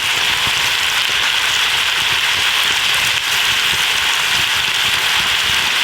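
Lamb and vegetables sizzling steadily in a very hot cast iron pan over a campfire, an even frying hiss.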